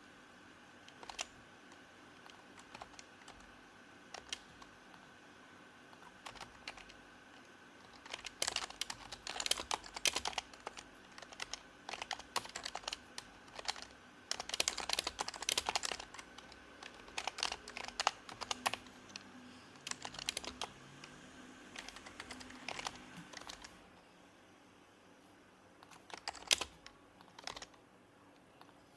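Typing on an HHKB Professional Hybrid Type-S keyboard, its silenced Topre switches giving soft, muted keystrokes. A few scattered presses give way to several quick runs of fast typing, which then thin out to single presses near the end.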